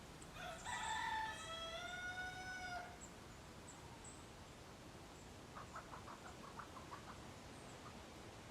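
A rooster crows once, a drawn-out call of about two and a half seconds. A few seconds later a chicken gives a run of soft, quick clucks.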